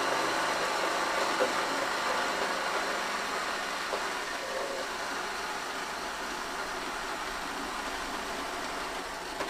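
Bandsaw running as it cuts through a truck exhaust pipe: a steady mechanical noise that slowly eases off toward the end.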